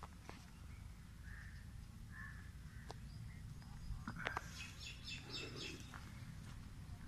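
Birds chirping in the background, with a quick run of high chirps a little past the middle, over a faint low steady rumble.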